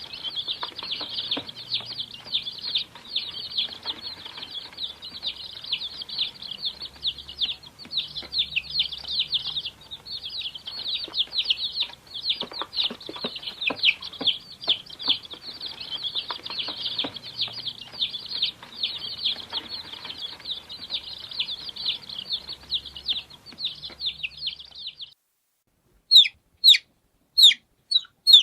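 Many baby chicks peeping at once in a dense, continuous high chorus. About 25 seconds in it breaks off, and after a short gap come separate, louder peeps that fall in pitch, about two a second.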